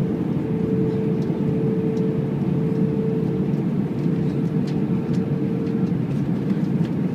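Steady engine and airflow noise inside the passenger cabin of an Airbus A319, with a thin steady hum that fades out about six seconds in.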